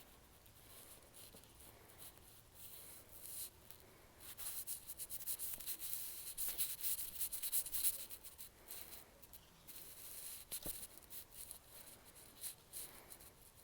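Slime being squished and worked by hand, with irregular soft clicks and crackles that are busiest in the middle.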